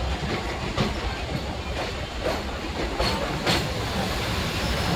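Howrah–Balurghat Express running, heard from aboard a passenger coach: a steady rumble of steel wheels on the rails with a few sharp clacks.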